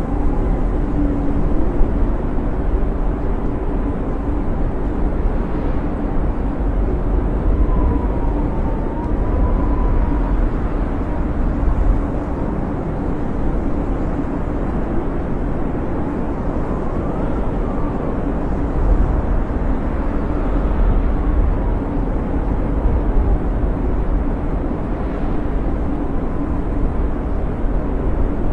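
Snowstorm wind blowing steadily with a deep rumble, and faint whistling howls that rise and fall a few times.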